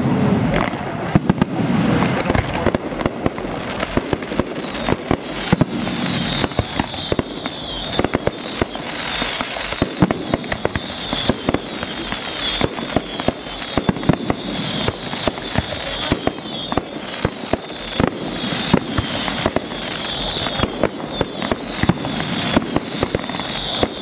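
Aerial fireworks display heard from about a quarter mile away: a continuous barrage of shell launches and bursts, several bangs a second, irregular and unbroken.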